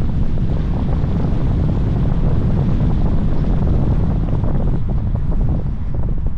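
Wind buffeting the microphone of a moving car, a loud, steady low rumble with fluttering gusts.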